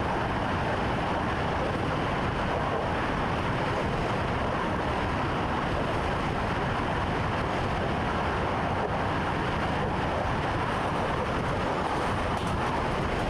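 Commuter train running steadily, heard from inside the driver's cab: an even rumble and rushing noise with no change in speed.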